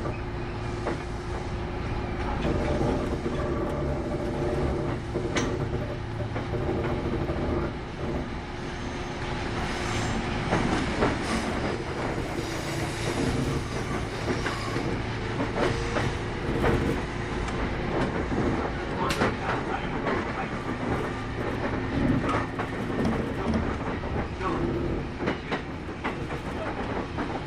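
Kintetsu 8810 series electric train running, heard from inside the car: steady running noise and motor hum with the clickety-clack of wheels over rail joints and scattered sharp clicks.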